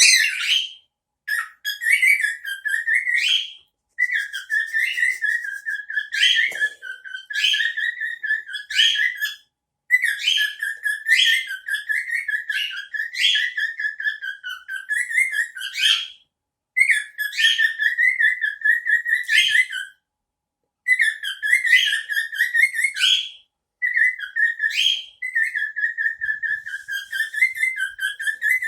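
A male cockatiel whistling its song in repeated phrases a few seconds long, with short pauses between them.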